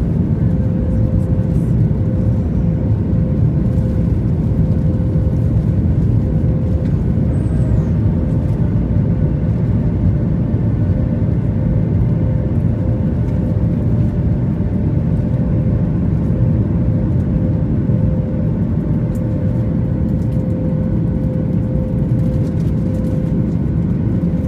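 Steady cabin noise of a Boeing 737 MAX airliner in its climb after takeoff: a deep, even engine and airflow rumble with a steady hum over it.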